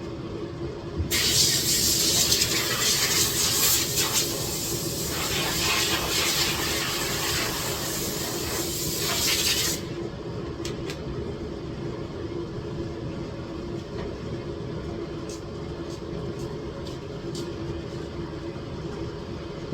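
Loud hissing, like air or spray under pressure, that starts suddenly about a second in and cuts off sharply about nine seconds later, over a steady low hum.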